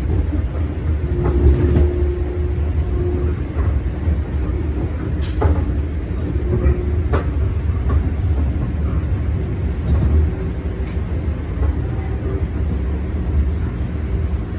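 Long Island Rail Road commuter train heard from inside the car while running: a steady low rumble with a few sharp clicks.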